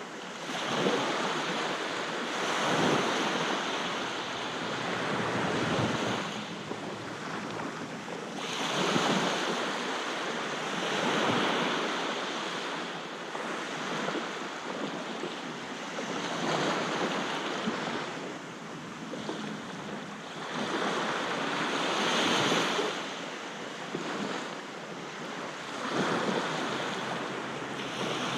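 Sea waves breaking and washing up on a beach, the surf swelling and falling back every few seconds.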